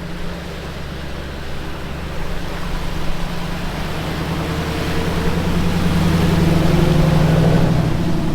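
A vehicle's engine running steadily as it drives through river water, with a constant wash of water noise. It grows louder over the second half as the vehicle comes closer.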